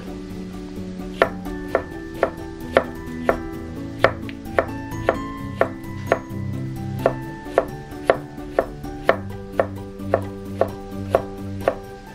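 Knife chopping on a cutting board in a steady rhythm of about two strokes a second, over soft background music with held notes.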